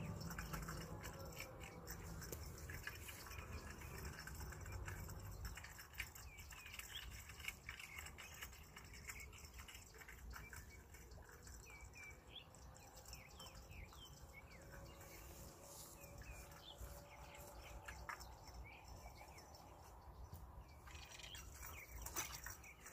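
Faint small-bird chirps, many short quick notes in the middle stretch, over a low wind rumble that eases after the first few seconds. A few sharp clicks come near the end.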